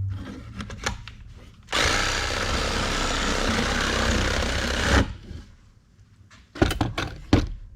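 Reciprocating saw (Sawzall) running for about three seconds, its blade cutting into a log post to clean out the wood left in a notch. A few sharp knocks follow near the end.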